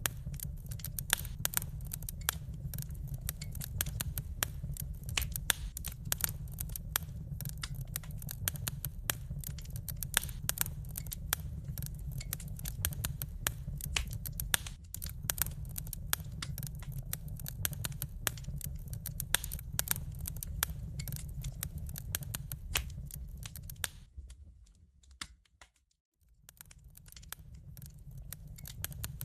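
Wood fire crackling in a fireplace: a dense run of sharp pops and snaps over a steady low rumble. Near the end it fades almost to silence for about two seconds, then comes back.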